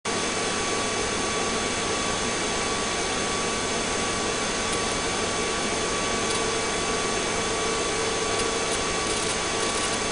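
Steady noise of a police helicopter in flight: an even rush with a few faint, constant whining tones.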